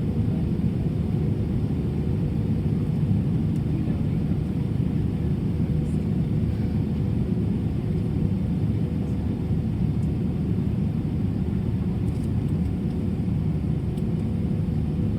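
Steady low rumble inside the cabin of an Airbus A320 on the ground before takeoff: engine and air-conditioning noise, even throughout, with a faint steady hum on top.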